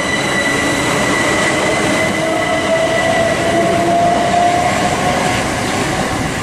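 Southeastern Class 375 Electrostar electric train pulling away from the platform, its traction motor whine rising slowly in pitch over a steady rumble, while a steady high-pitched tone fades out.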